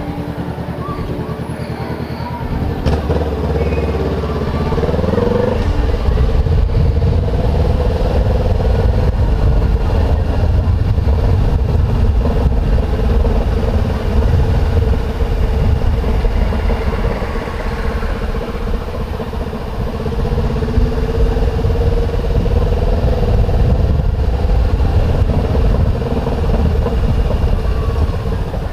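Honda CBR500R's 471 cc parallel-twin engine running at low revs, rising in pitch as the bike pulls away about four seconds in, then running steadily at low speed.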